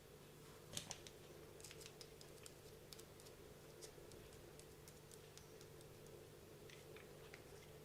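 Faint, scattered clicks and light taps of the small gears and parts of an RC car's differential being handled and set in place during greasing, with one sharper click about a second in, over a faint steady hum.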